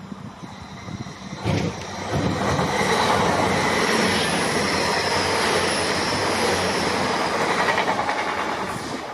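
Train passing on the main line: a rush of wheel and rail noise that builds about two seconds in and holds, with faint thin high tones sliding slowly downward.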